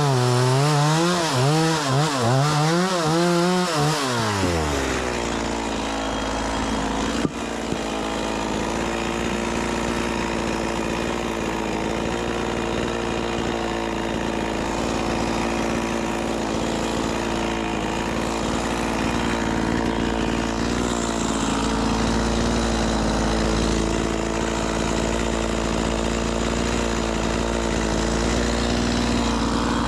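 Stihl MS 180 C-BE two-stroke chainsaw revving up and down for the first few seconds, then running steadily at high speed as it cuts through a firewood log. A sharp click about seven seconds in.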